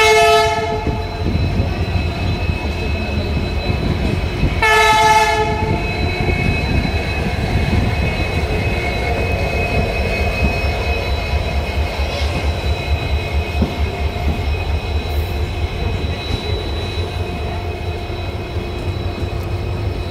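Indian passenger train rolling out of a station: a steady low rumble of coach wheels on the rails with a regular clickety-clack. Two blasts of a locomotive horn, each about a second long, come at the very start and again about five seconds in.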